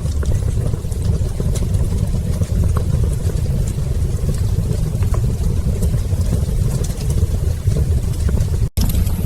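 Fire burning in a fireplace: a steady low rumble with scattered small crackles and pops, cutting out for an instant near the end.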